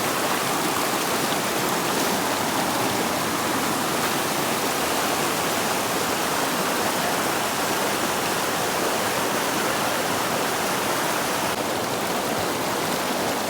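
River water rushing steadily over rocks, an even, unbroken rush of flowing water close by.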